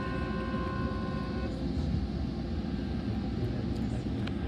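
Steady rumble of a Metrolink train pulling out, heard from inside a passenger car, with the F125 locomotive's horn sounding a chord of several steady tones that cuts off about a second and a half in.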